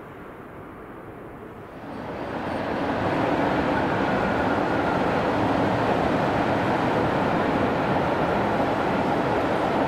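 A train approaching and running past on the line, growing louder over about a second and a half, about two seconds in, then a loud, steady rolling rush of wheels on rail.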